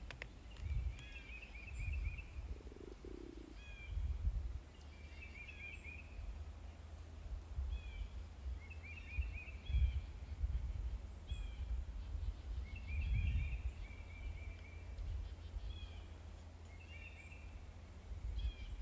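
A small bird calling again and again in short chirping, warbling runs every couple of seconds, over low uneven rumbles.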